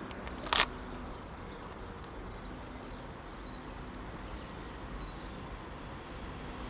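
Quiet outdoor background with a small bird chirping repeatedly, and one short burst of noise about half a second in.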